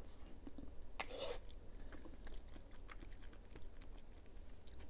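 Mouth sounds of chewing a soft Kyoho green grape jelly: small wet clicks throughout, with a louder bite about a second in.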